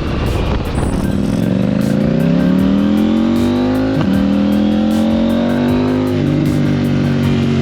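Motorcycle engine accelerating hard, its pitch rising, dropping at a gear change about four seconds in, rising again, then settling to a steady pitch near the end.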